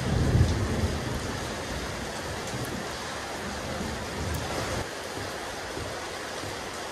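Steady rain falling on a rooftop terrace, an even hiss, with the tail of a low thunder rumble dying away in the first second or so.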